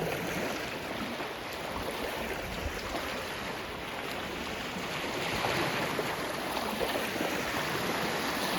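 Small waves washing steadily on a lake shore, a continuous watery rush.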